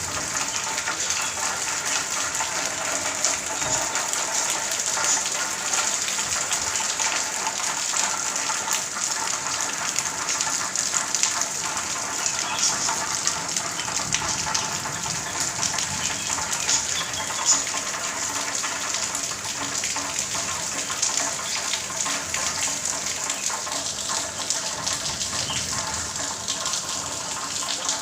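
Heavy monsoon rain pouring down steadily, a dense hiss of drops with water gushing.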